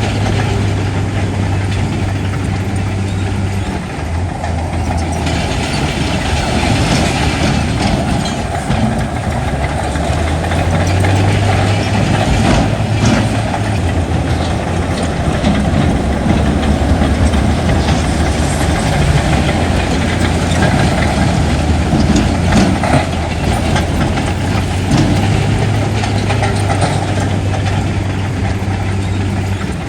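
Heavy diesel engine of earthmoving machinery running steadily under load, its low hum shifting slightly in pitch.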